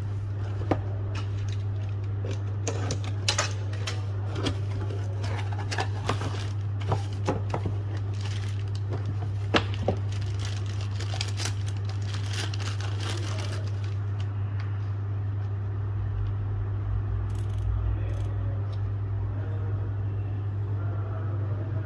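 Handling noises: light clicks, taps and crinkling, frequent over the first two-thirds and thinning out after, over a steady low hum.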